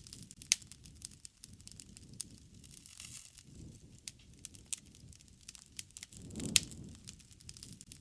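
Wood fire crackling, with frequent sharp pops over the low rush of the flames. The rush swells about six and a half seconds in, with one loud pop.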